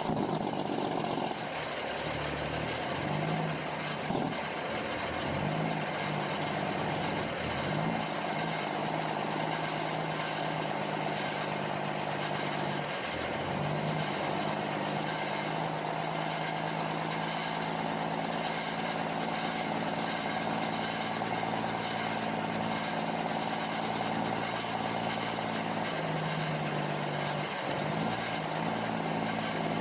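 Heavy truck's diesel engine running at idle, a steady low drone whose pitch steps up and down a few times.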